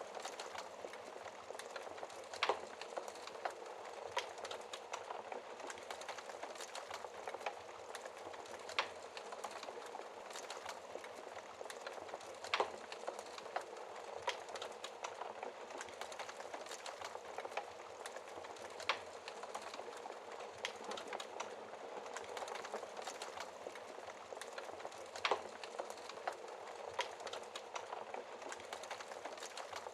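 Fireplace fire crackling: a steady bed of small crackles, with louder sharp pops every few seconds.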